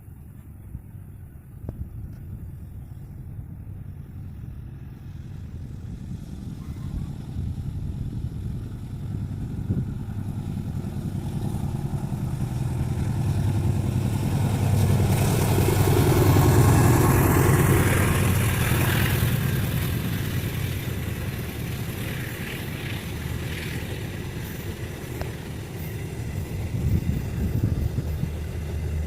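Diesel-hauled train passing: a running engine and rumble that build for about fifteen seconds, peak with a falling pitch as it goes by, then fade, leaving a steady low hum near the end.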